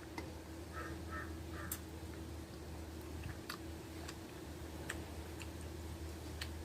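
Scattered wet mouth clicks and smacks of someone chewing food close to the microphone, over a steady low hum. A crow caws three times in quick succession about a second in.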